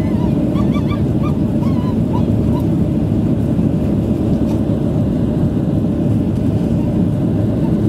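Steady cabin noise of a Boeing 737-600 in flight, the deep rush of its CFM56 jet engines and airflow after take-off. A few short, high squeaks come through in the first two or three seconds.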